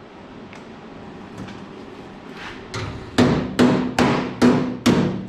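Hammer striking sheet steel on a truck fender. Steady blows begin about three seconds in, roughly two and a half a second, and each one rings briefly.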